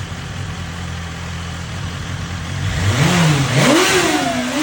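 Inline-four superbike engine idling steadily, then revved in a few quick throttle blips from a little before three seconds in, the pitch rising and falling each time.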